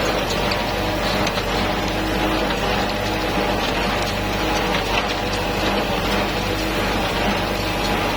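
Tractor engine running steadily under load, with the clatter of a hay baler working.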